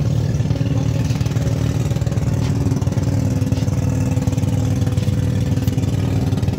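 Boat engine running steadily, a constant low drone with a fast even pulse.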